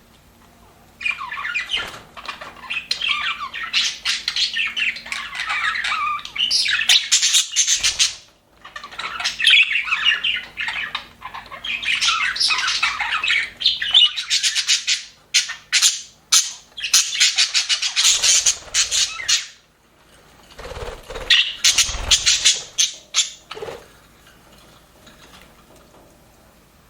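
Budgerigars chattering and warbling in four long bursts with short breaks between them, dying away a few seconds before the end. A few low bumps come during the last burst.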